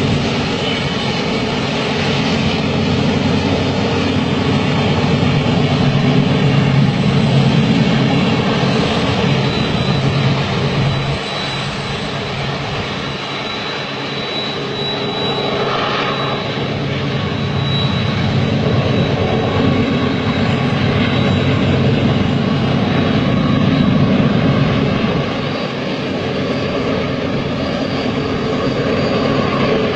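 Long freight train rolling past, a steady loud rumble of wheels on rails that swells and eases slowly, with a faint thin high squeal coming and going.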